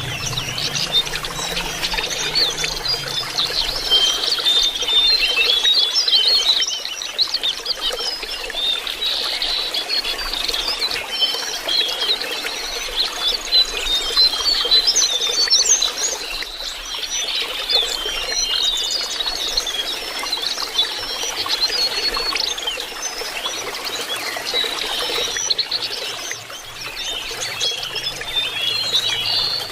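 Lesser shortwings (jongkangan) singing a dense, continuous high twittering chatter of quick notes, over a steady trickle of running water.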